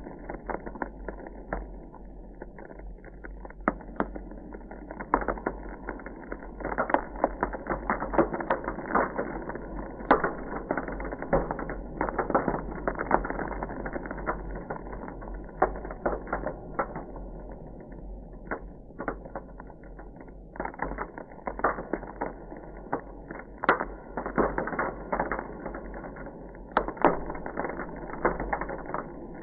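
Ice crackling: dense, irregular sharp cracks and ticks, coming in busier clusters with thinner stretches between, over a steady low hum.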